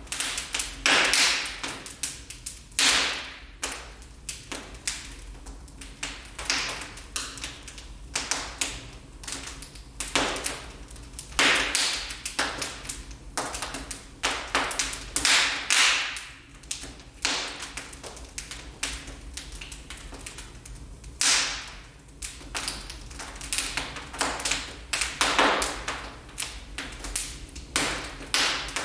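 Wood fire burning in a fireplace, crackling and popping: irregular sharp snaps, some louder than others, over a low steady rumble.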